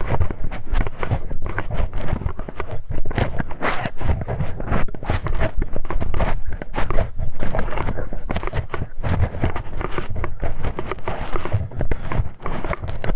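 Ear-cleaning ASMR sounds right at a microphone's ear: dense, irregular scratching, rubbing and clicking with a rumbling low end.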